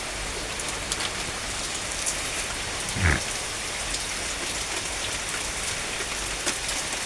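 Steady rain falling, with scattered drops ticking on surfaces and one brief low sound about three seconds in.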